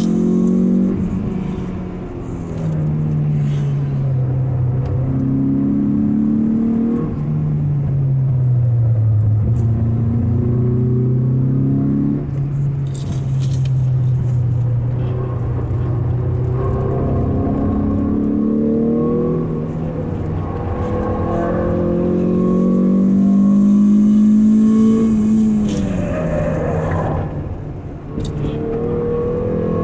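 Mazda 323F BG GT's inline-four engine heard from inside the cabin on a track lap, its pitch climbing and sinking as the driver accelerates and lifts through corners. The pitch drops suddenly several times.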